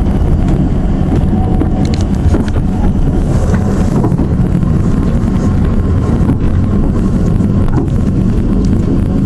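Isle of Man Steam Railway carriage running along the line: a steady, loud low rumble and rattle of the train in motion, with scattered clicks and wind buffeting the microphone.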